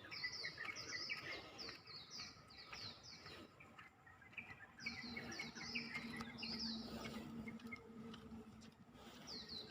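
Small birds chirping in rapid series of short, high, down-slurred notes, pausing briefly near the middle. A low steady hum joins for about three seconds past the middle.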